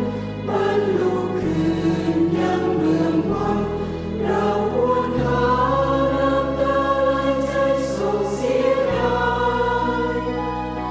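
Group of voices singing a slow Thai devotional song together over a steady instrumental accompaniment, holding long notes while the bass shifts from chord to chord every few seconds.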